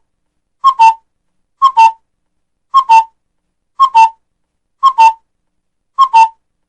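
A bird's two-note whistled call, a higher note followed by a slightly lower one, repeated about once a second, six times.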